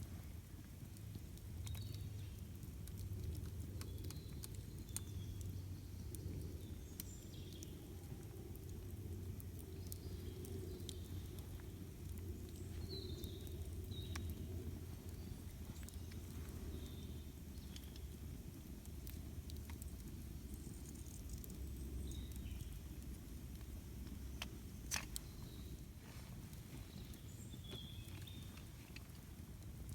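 Wood campfire crackling, with scattered sharp pops (the loudest about 25 seconds in), over a low steady rumble. Short bird chirps come and go throughout.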